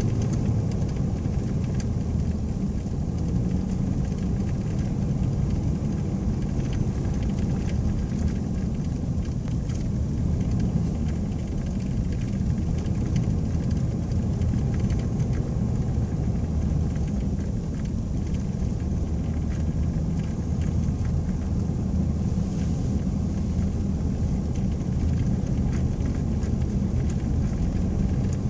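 Steady low rumble inside the cab of a four-wheel-drive Ford SuperCrew pickup cruising slowly on a snow-packed road: engine and mud tires running evenly.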